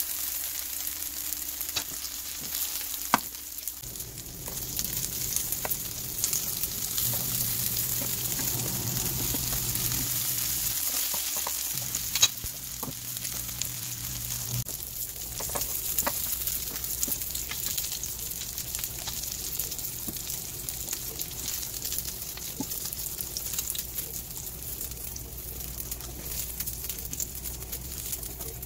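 Flat Korean tofu-and-beef meatball patties sizzling steadily as they fry in oil in a nonstick pan, with scattered sharp clicks and taps of a silicone spatula and fork against the pan as the patties are worked and lifted out.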